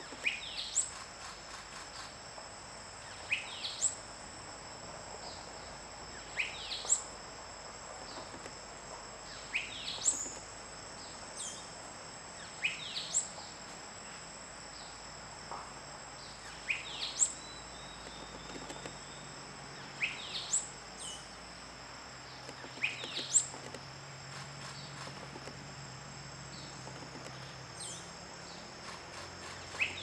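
Euphonia calling: short, clear notes sweeping downward, often in quick pairs, repeated about every three seconds. A steady high insect trill runs beneath.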